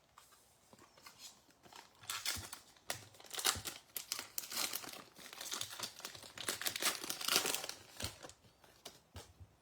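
Empty trading card pack wrappers crinkling and crumpling as they are gathered up and cleared off the table, with light rustles and clicks, busiest from about two to eight seconds in.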